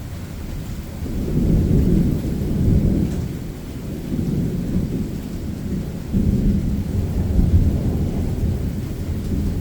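Rolling thunder: a deep, drawn-out rumble that swells about a second in, eases, and swells again about six seconds in.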